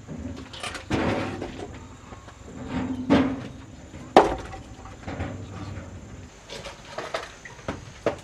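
Wood knocking and clattering: several uneven, irregularly spaced knocks, the sharpest about four seconds in.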